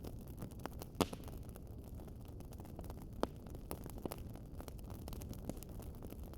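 Wood fire crackling, with irregular small pops and snaps over a low steady rumble; one louder pop about a second in and another a little after three seconds.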